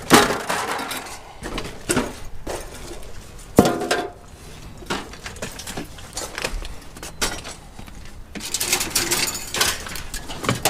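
Scrap metal being tossed onto a scrap pile, clanking and clattering in a string of separate impacts. A hard clatter comes right at the start, single clanks follow about two and three and a half seconds in, and a dense burst of crashing comes near the end.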